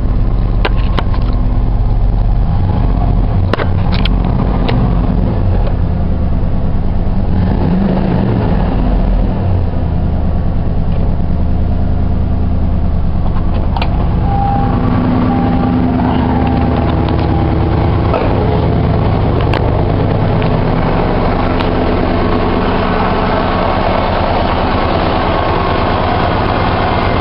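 1989 Ford F-150's fuel-injected engine idling steadily after a cold start. It runs smoothly, and the owner calls the motor mint.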